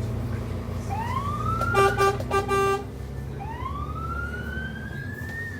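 Fire engine siren wailing over the truck's diesel engine drone, heard from inside the cab. The siren's pitch climbs about a second in, three short horn blasts cut in, and then the siren climbs again in one long rise.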